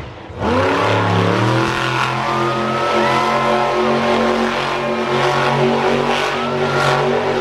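Monster truck engine revving up about half a second in, then held at high revs with a slight waver.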